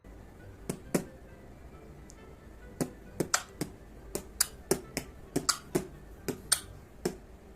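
A series of sharp clicks or taps, two early on and then roughly two a second with uneven spacing, over a low steady hum.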